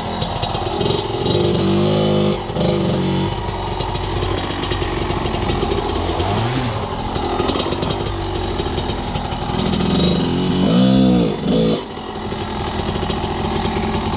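Enduro motorcycle engine running under load and revving unevenly, the revs rising and falling sharply about eleven seconds in.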